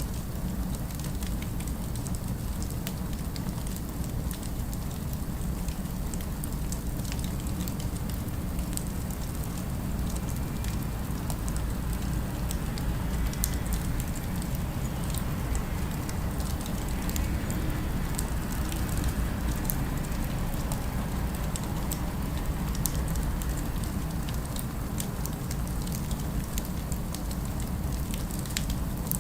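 Fireplace crackling, with scattered small pops over a steady low rumble of distant city ambience.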